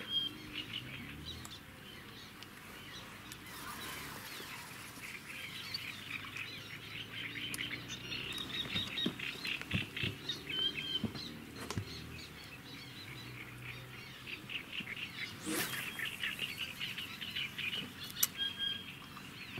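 Small birds chirping and singing, quick repeated phrases going on throughout.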